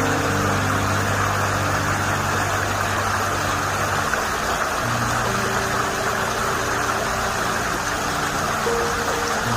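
Stream water running under ice, a steady rush, with low held notes of background music that change pitch a few times.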